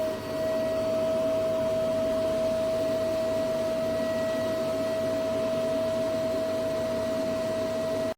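Xiaomi Robot Vacuum X20 Pro's motor running at full speed with a steady high whine over a rushing hiss. It cuts off suddenly at the end.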